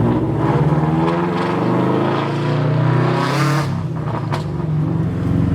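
Turbocharged car engine revving up under acceleration, its pitch rising for about three seconds, then a short blow-off valve hiss as the revs drop.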